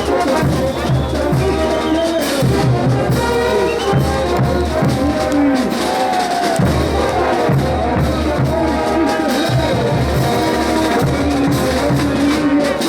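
Bolivian brass band playing ch'uta dance music: a brass melody carried over bass and drums.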